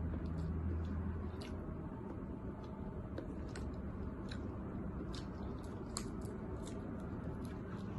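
Eating sounds: chewing and squishing of seafood with scattered small clicks and crackles, over a steady low hum.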